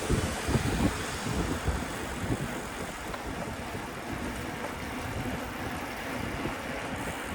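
City street traffic, with cars and their engines running, heard from a moving bicycle. Gusts of wind buffet the microphone in the first couple of seconds.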